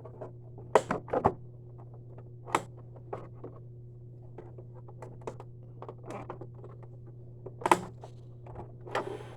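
Hands working at the loose plastic hood of a Hoover Preferred upright vacuum: scattered sharp plastic clicks, knocks and scrapes, the loudest about a second in and near the end, over a steady low hum.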